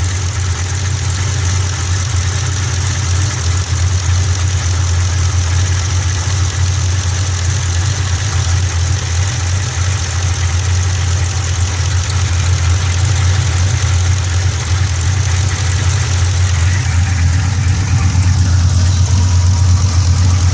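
Engine idling steadily with a low, even drone and a thin, steady high-pitched sound above it, from a machine whose belt the owner calls bad.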